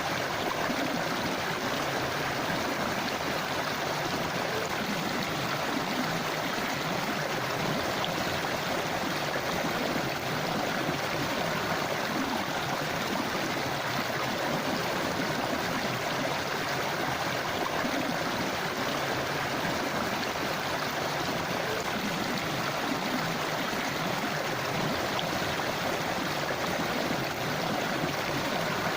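A river or forest stream flowing steadily over rocks, a constant rushing and babbling of water.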